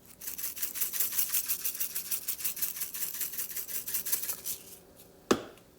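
Spice shaker of crushed red pepper being shaken rapidly and evenly, the flakes rattling out through the shaker top at about eight shakes a second until they stop about four and a half seconds in. One sharp click follows shortly after.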